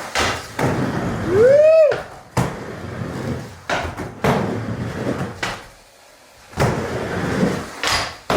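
Skateboard wheels rolling across a wooden mini ramp in repeated swells, with sharp clacks and knocks of the board hitting the ramp. About a second and a half in, a short whoop rises and falls over the rolling.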